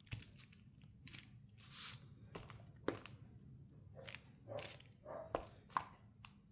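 Faint, irregular taps, clicks and brief rustles of a rubber stamp being inked on an ink pad and pressed onto strips of tape on a work surface.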